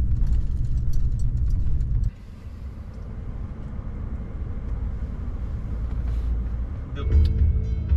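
Low, steady rumble of a truck driving, heard from inside the cab, which cuts off abruptly about two seconds in. A quieter rushing noise follows and slowly builds, and music starts near the end.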